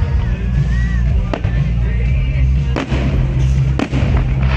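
Fireworks going off, with sharp bangs about one and a half, three and four seconds in, over loud music with a heavy bass.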